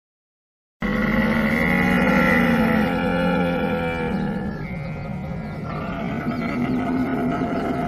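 Camel calling: a long, low, pitched call that starts abruptly about a second in and shifts in pitch about halfway through.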